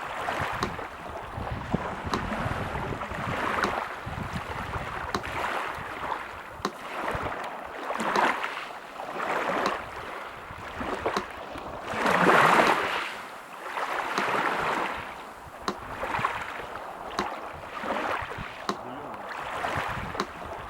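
Sea surf washing in repeated surges, the loudest about midway, with the even ticking of a metronome running steadily over it.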